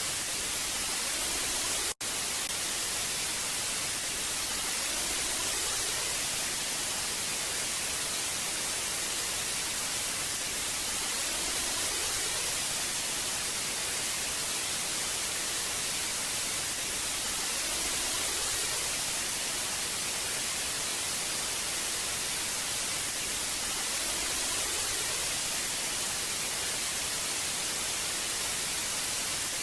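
Old analog television static: a steady, even hiss, brightest in the treble, with a split-second dropout about two seconds in.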